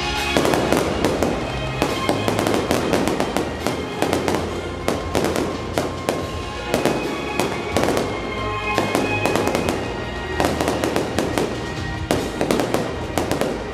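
Fireworks crackling and popping in rapid, dense, irregular volleys from spark fountains and crackling stars, with music playing underneath.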